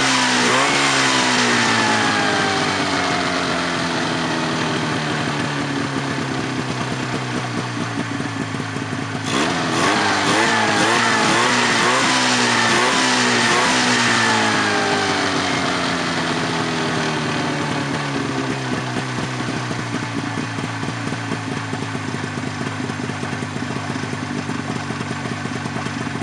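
Buran snowmobile's RMZ-640 two-stroke twin, fitted with an aftermarket tuned exhaust pipe, running under way. Its pitch slides down, rises sharply about nine seconds in as the throttle is opened, then slides down again as it gradually grows fainter.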